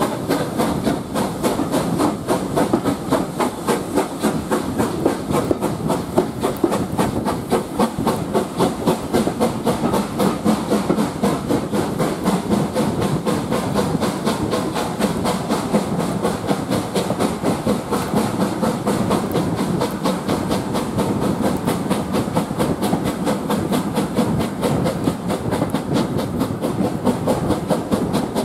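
Steam train running steadily on the line, with a continuous rapid clatter of wheels on rail and a steam hiss.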